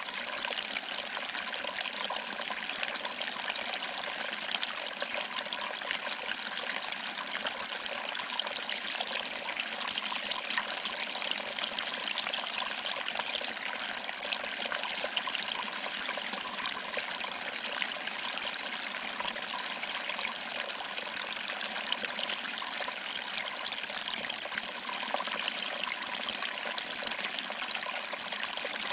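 Small waterfall: water trickling over rocks and splashing into a pool below, a steady, unbroken splashing with little low rumble.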